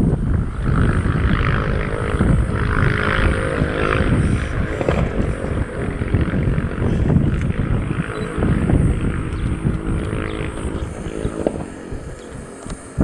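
Boeing 737-800's CFM56 turbofan jet engines running as the airliner lands, a steady rumble with a faint whining tone over it, fading near the end.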